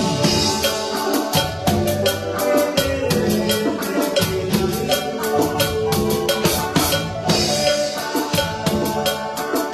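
Band music with a drum kit playing a busy beat of frequent hits over a bass line and sustained pitched instruments.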